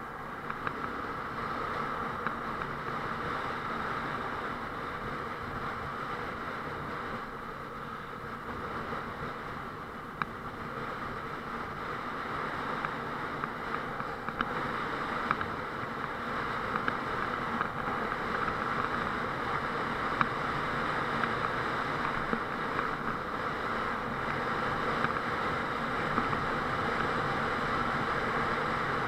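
Honda Transalp 650's V-twin engine running with steady wind rush, gradually getting louder, with a few scattered clicks.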